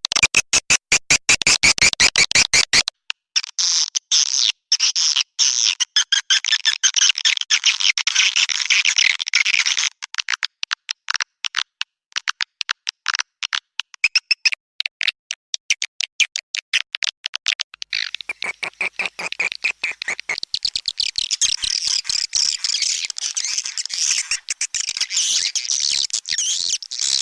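Swiftlet lure call, a recorded track of swiftlet twittering used to draw swiftlets into a nesting house. Rapid clicking runs throughout, with dense high-pitched twittering chirps over it for long stretches; the twittering falls away for several seconds midway, leaving mostly clicks.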